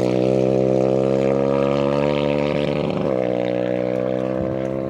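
Rally vehicle engine running at steady revs, with a brief change in pitch about three seconds in, then slowly fading.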